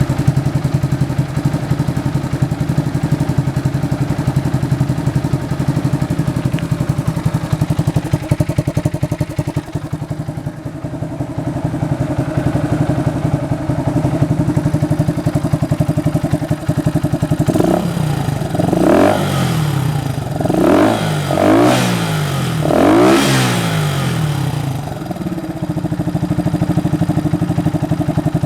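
Honda FTR223's single-cylinder engine breathing through a Supertrapp aftermarket muffler, idling with an even beat. Around two-thirds of the way through it is blipped up and down several times in quick succession, then settles back to idle.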